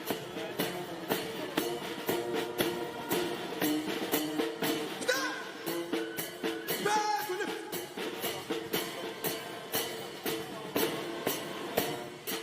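Band music: a sustained melody over a regular beat of drum strikes.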